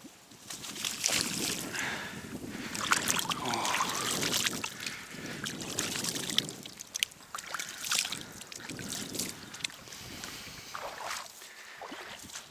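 Water splashing and sloshing against a small boat, with irregular clicks and knocks of fishing gear being handled.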